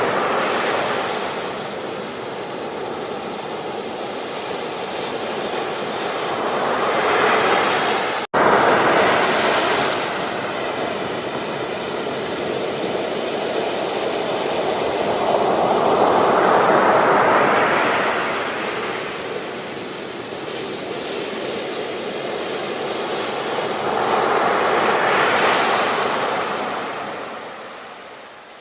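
Ocean surf breaking on a beach: waves wash in and draw back in slow swells, one about every 8 to 9 seconds. There is a split-second dropout about a third of the way in, and the sound fades down near the end.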